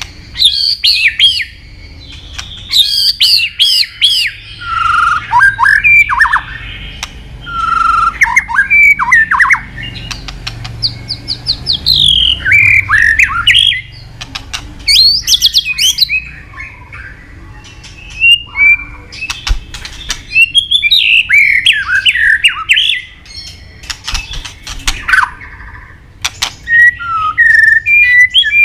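White-rumped shama (murai batu) singing a loud, varied song of rapid whistled phrases mixed with harsh chattering and clicking notes, in bursts of a few seconds with short pauses. It is a full singing bout packed with mimicked fill-in phrases.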